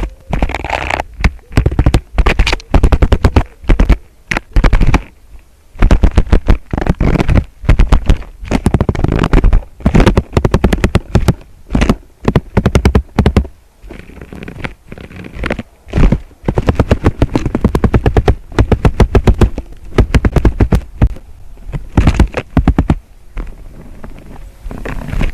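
Bursts of rapid, loud knocks and scrapes close to the microphone, coming in irregular runs with short pauses between them.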